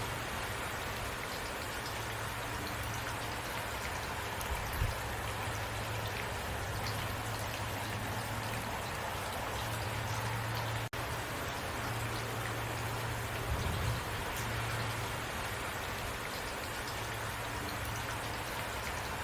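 Steady rain falling, an even hiss of drops on a surface with a low rumble underneath that comes and goes. The sound cuts out for an instant about halfway through.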